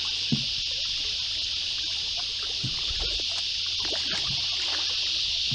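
Steady high insect buzz from the riverside bush, with the light splashes and drips of canoe paddle strokes in the water.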